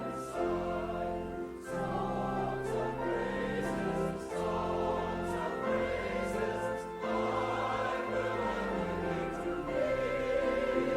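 Choir singing with instrumental accompaniment, sustained chords changing every second or two over steady bass notes.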